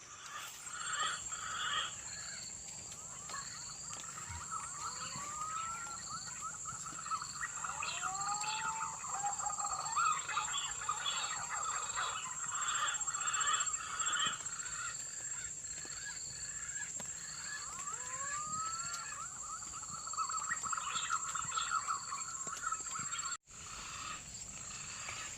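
Outdoor wildlife ambience: a steady high-pitched insect drone under a busy chirping chorus, with repeated short whistled bird calls that slide downward. The sound drops out for an instant near the end.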